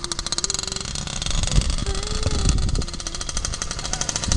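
Small dirt bike engine running with a rapid, even putter.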